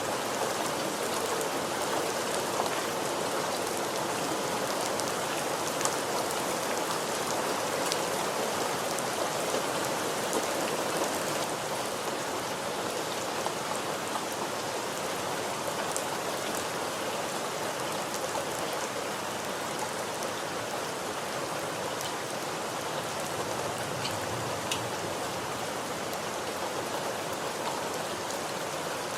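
Steady rain falling, an even hiss of water with scattered individual drops ticking on a surface.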